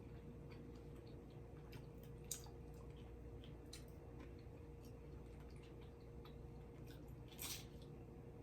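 Faint close-miked chewing of pizza and chicken: small wet mouth clicks, a sharper click about two seconds in and a brief louder smack near the end, over a steady faint hum.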